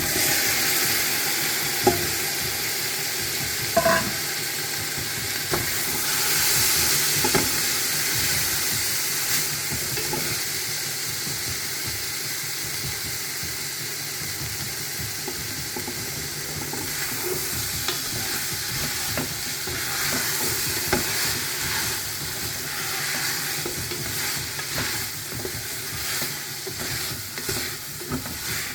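Chicken feet sizzling as they fry in a soup pot with sautéed vegetables and curry seasoning. A few knocks come in the first ten seconds or so as they are stirred and turned to coat them.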